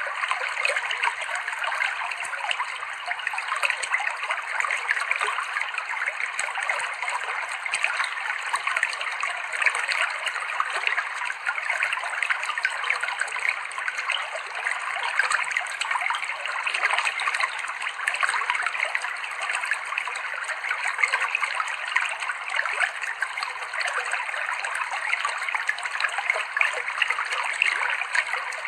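Clear river water flowing and trickling over rocks in a steady, even babble.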